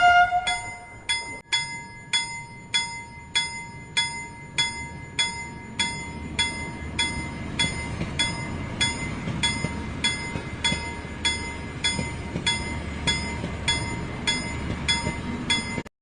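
Toy train's bell dinging over and over, about two dings a second, over a low rumble that grows louder about a third of the way in.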